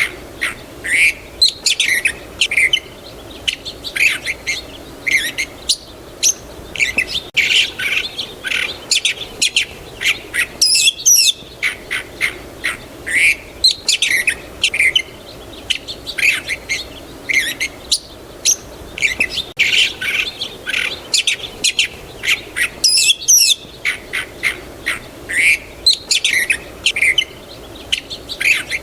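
Several songbirds chirping and trilling together in a dense, overlapping chorus of short high calls. The same stretch of birdsong repeats about every twelve seconds, each pass broken by a brief lull.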